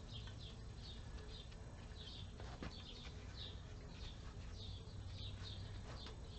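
Birds chirping faintly in short, high calls, about three a second, over a low steady hum. A few light clicks come about two and a half seconds in and again near the end.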